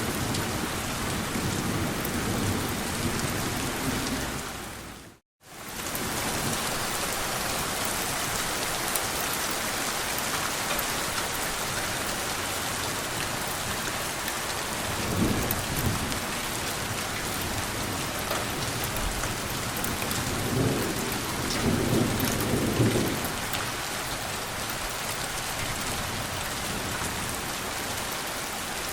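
Steady rain falling, with low rumbles of thunder swelling up about halfway through and again about two-thirds of the way in. The rain cuts out for a moment about five seconds in, then comes straight back.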